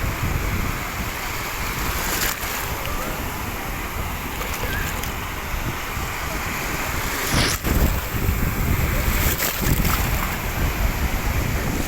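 Steady rushing of wind and surf, with wind buffeting the microphone in an uneven low rumble, and a few brief knocks, the loudest about two-thirds of the way in.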